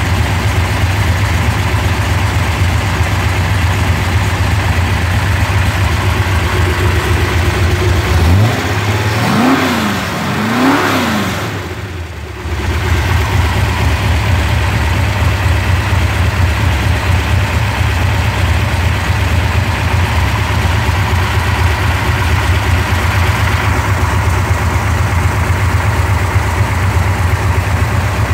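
Chrysler 440 Six Pack big-block V8 idling unloaded on an engine test stand. It is revved twice in quick succession, about nine and eleven seconds in, then settles back to a steady idle.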